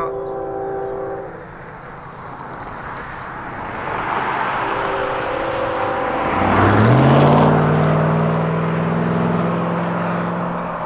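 Diesel freight locomotive approaching with its air horn sounding two steady chords: one of about a second and a half at the start and another about five seconds in. Then a low engine note rises in pitch and holds over the rumble of the train, which is loudest about seven seconds in.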